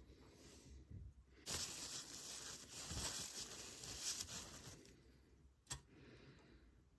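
Faint, brisk hand rubbing, a dry scrubbing noise that starts about a second and a half in and lasts about three seconds, then a single sharp click.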